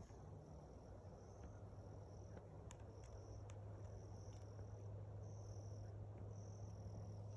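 Insects trilling faintly in short repeated bursts about half a second long, over a steadier high-pitched insect buzz. A steady low hum runs underneath, with a few faint ticks.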